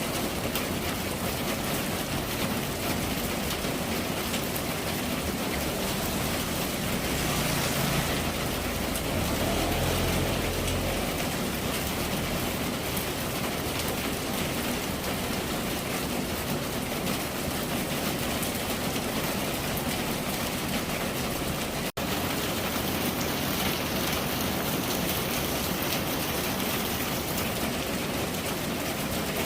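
Steady rain falling, an even hiss of drops. A low rumble swells briefly between about seven and eleven seconds in, and the sound cuts out for an instant a little past twenty seconds.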